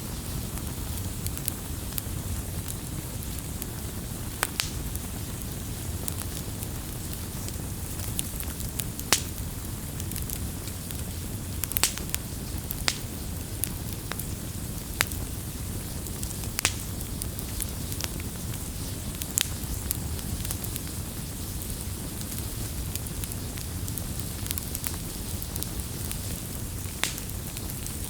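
Campfire burning, a steady low rumble of flames with sharp crackles and pops at irregular intervals, a dozen or so across the stretch.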